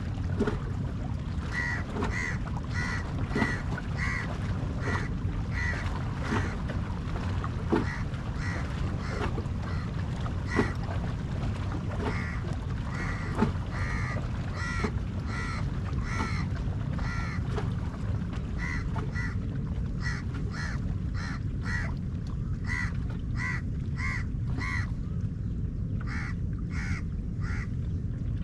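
Crows cawing over and over, short harsh calls about two a second, over a steady low rumble.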